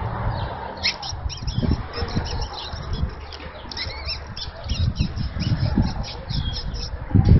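Birds calling, many short high chirps and squawks overlapping from about a second in, over a low rumble.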